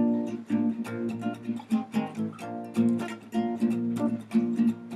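Acoustic guitar strummed in a steady rhythm, a run of chord strokes with no voice over them.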